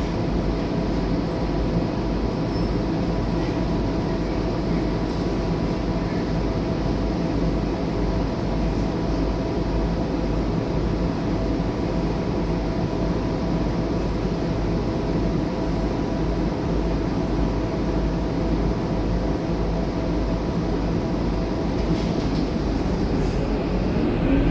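Scania K230UB city bus on the move: its five-cylinder diesel engine and running gear make a steady drone with a low rumble. Near the end a whine starts to rise in pitch as the bus picks up speed.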